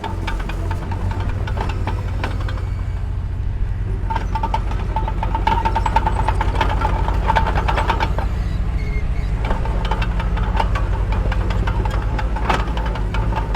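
Diesel engine of heavy earthmoving machinery running steadily, with scattered metallic clanks and a high squealing tone from about four to eight seconds in.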